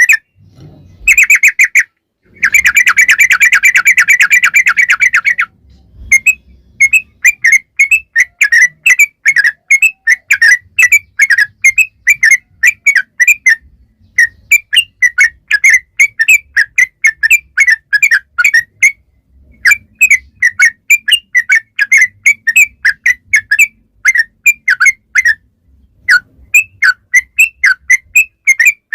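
Yellow-vented bulbul (trucuk) singing: long runs of rapid, repeated chirping notes broken by short pauses, with a dense unbroken trill near the start.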